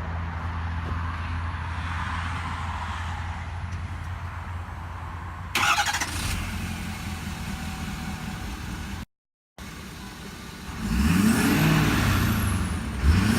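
2011 Ford F-350's 6.7 L Power Stroke V8 turbodiesel idling steadily, with a sudden loud burst a little over five seconds in and a brief cut-out of all sound. Near the end it is revved up and down, with a turbo whistle rising and falling over the revs.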